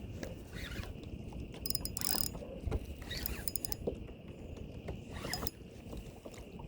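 Fishing reel clicking in short bursts of fine ticks, over a low rumble of wind and water.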